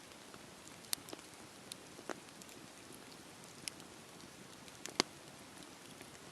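Campfire burning: a soft steady hiss with scattered sharp crackles and pops of the burning wood, the loudest pop about five seconds in.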